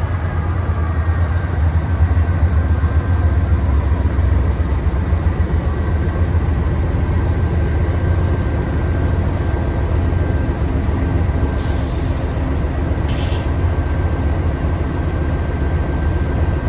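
Diesel locomotives of a freight train running with a steady low rumble, and two short hisses of air about twelve and thirteen seconds in.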